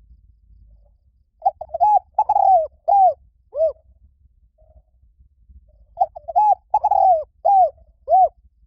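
Spotted dove cooing: two phrases of about five notes each, a second apart, each note arching up and then falling, with a longer falling note in the middle of each phrase.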